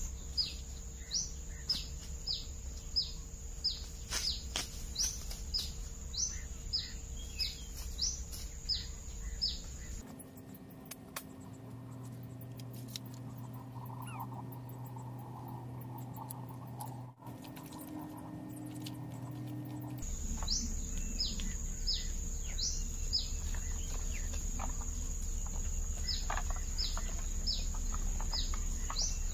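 A bird calling over and over with short falling chirps, one or two a second, over a steady high-pitched insect drone. For about ten seconds in the middle the chirps and drone drop out, leaving a low steady hum.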